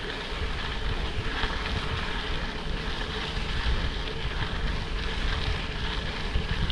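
Steady wind buffeting the microphone of a moving bicycle rider, with a low rumble and no distinct events.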